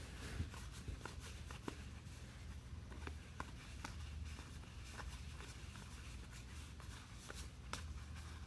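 Trading cards being handled and flipped through a stack: scattered light clicks and rustles of card stock, over a steady low hum.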